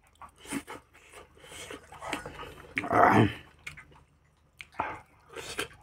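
Close-up eating sounds of a man chewing a mouthful of rice and meat eaten by hand, with wet chewing and lip smacks. A louder, partly voiced mouth sound comes about three seconds in.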